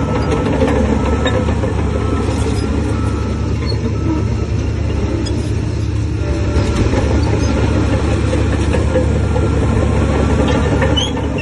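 Heavy diesel engine of earthmoving machinery running steadily, a deep continuous drone with a few faint clanks. It drops slightly in level near the end.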